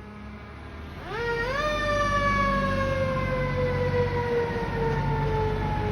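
Fire truck's mechanical siren winding up sharply about a second in, then slowly coasting down in pitch, over the low rumble of the truck's engine.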